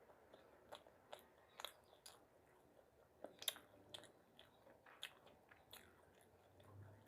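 Faint close-up chewing of food, with a string of short wet mouth clicks and smacks at an irregular pace of about one or two a second.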